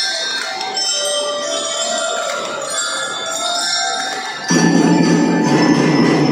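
A children's drum band playing: bell lyras (glockenspiels) ring out a melody of high, bell-like notes. About four and a half seconds in, the band comes in louder with a fuller, lower sound under the bells.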